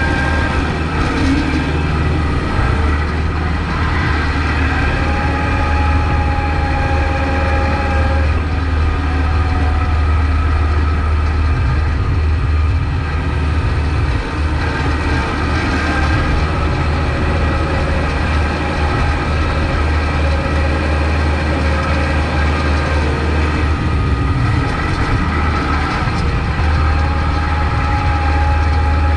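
Kubota MX5200 tractor's four-cylinder diesel engine running steadily under load while plowing snow. A higher whine rises over it twice, about five seconds in and again near the end.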